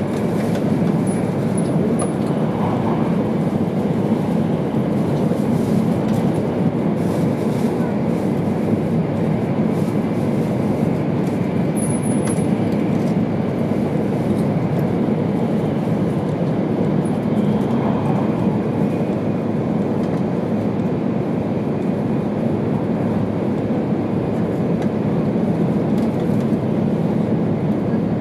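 Steady interior running noise of an E2 series Shinkansen train at speed, heard from inside the passenger car: an even, unbroken low rumble.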